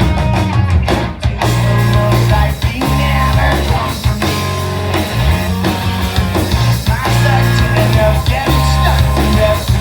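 A rock band playing live, heard through a phone's microphone: loud electric guitars, bass and drums in an instrumental passage.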